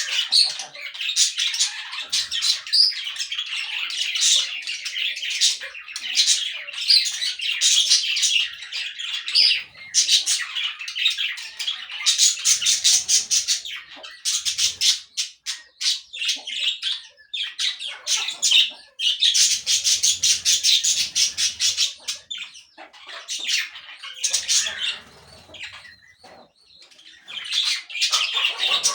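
Parakeets chattering and squawking in rapid, overlapping high-pitched calls, with short lulls about halfway through and again near the end.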